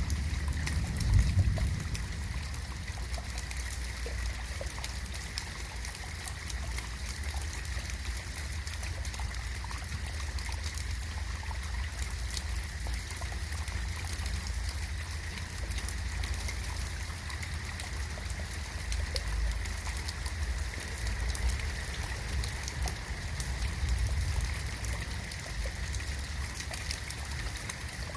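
Steady rain falling, a constant hiss with scattered fine drop ticks over a low rumble; a brief louder low swell about a second in.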